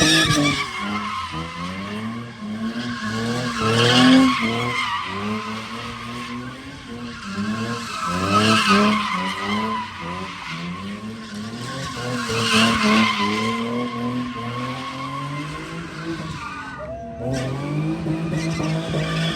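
Car drifting with its tires squealing, the squeal swelling about every four seconds while the engine revs up in repeated rising sweeps.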